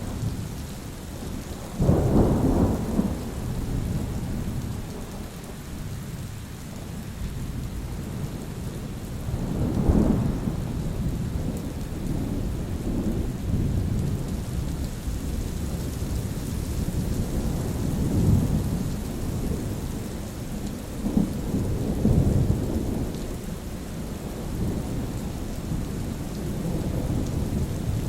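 Thunderstorm: steady rainfall with rolling thunder, a sharp crack about two seconds in and another near ten seconds, then several softer rumbles.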